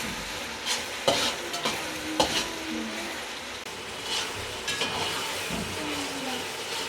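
Food sizzling in hot oil in a cooking pot while it is stirred, with a spoon knocking and scraping against the pot several times.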